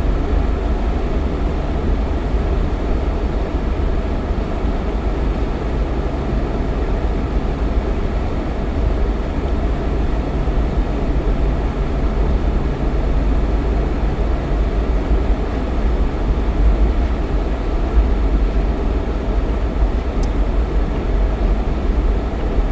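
Steady engine and road noise of a Jeep Cherokee XJ driving at a constant pace, a continuous low rumble with no sudden events.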